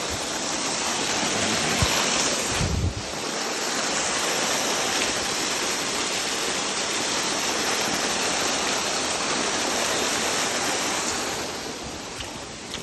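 Waterfall rushing: a steady, loud wash of falling water that eases off somewhat near the end, with a brief low thump about three seconds in.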